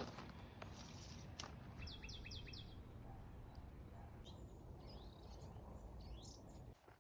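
A bird calls a quick run of about five short, high chirps about two seconds in, with a few fainter chirps later. Under it runs a faint, steady low rumble that drops away just before the end.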